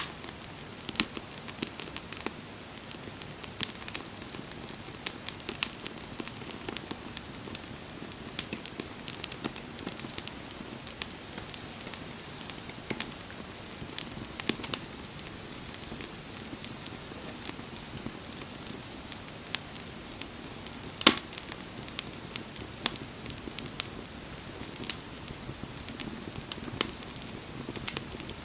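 Wood bonfire crackling over a soft steady hiss, with frequent sharp snaps and one loud pop about two-thirds of the way through.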